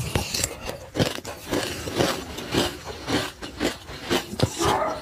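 Close-miked chewing of a mouthful of sesame seeds: a dense, irregular run of small crunching crackles. A metal spoon scrapes inside the seed jar near the end.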